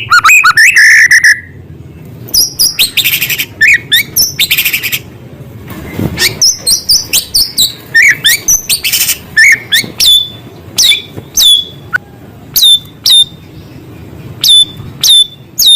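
White-rumped shama (murai batu) in full song: a rapid, loud run of sharp down-slurred whistles and chips, broken by a few buzzy rattling phrases, with mimicked calls of small birds woven in.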